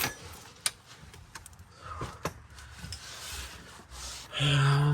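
Scattered light clicks and scraping of metal as the loosened oil pan is tugged and worked against the engine block. Near the end comes a short, low hummed sound.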